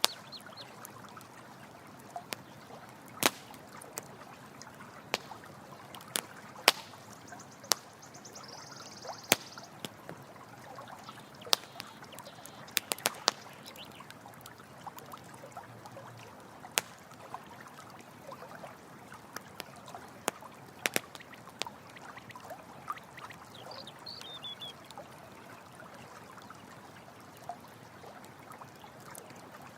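Running water flowing steadily, with a campfire crackling over it in sharp, irregular pops, a few each second at the busiest moments.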